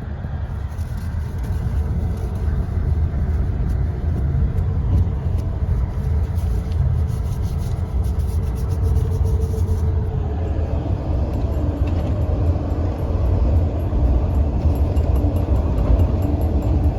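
Passenger train running, a steady low rumble and rolling noise heard from inside a sleeper compartment, a little louder from about ten seconds in.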